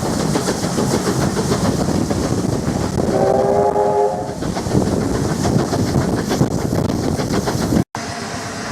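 A train running with its wheels clattering over the rail joints, and a whistle sounding once, a chord of several steady notes lasting just over a second. Near the end the sound cuts off abruptly and a quieter, steadier train sound follows.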